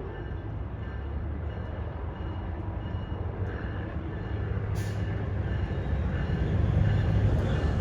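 Diesel locomotive of an approaching CSX freight train: a low rumble that grows steadily louder.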